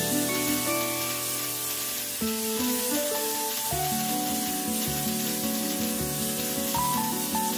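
Background music with a melody over the steady sizzle of dried napa cabbage greens stir-frying in a hot pan.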